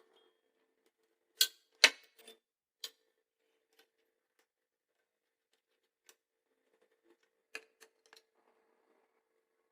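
A few sharp clicks and knocks over a faint steady hum: two loud ones close together a second and a half to two seconds in, a couple of lighter ones soon after, and three more in quick succession near the end.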